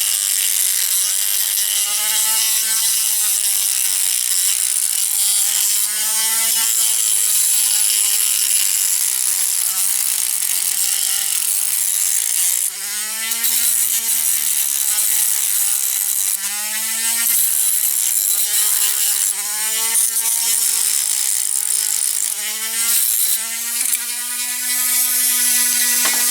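Dremel rotary tool with a grinding stone grinding the end off a diecast model's metal axle. Its motor whine keeps dipping and recovering in pitch as the stone is pressed onto the metal, over a steady high grinding hiss.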